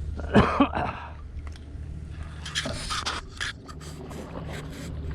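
Motorboat engine idling with a steady low hum, with a few short noises over it.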